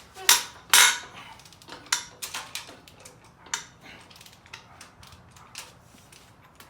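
Metal hand tools working on a Subaru EJ20 engine: two sharp knocks near the start, then a run of irregular small clicks that thins out toward the end.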